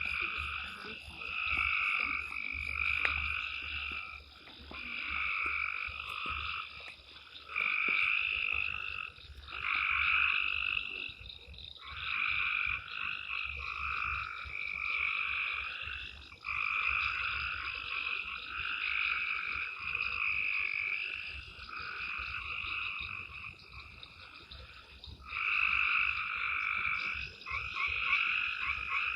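Chorus of frogs singing, with overlapping calls about a second long repeating steadily, over a faint low rumble.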